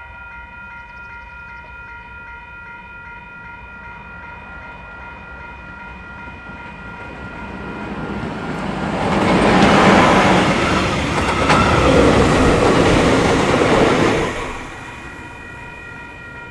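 Train hauled by a KiwiRail EF-class electric locomotive passing close by: the rumble and rail noise build up from about halfway, are loudest for several seconds, then drop away near the end. A steady high ringing tone runs underneath.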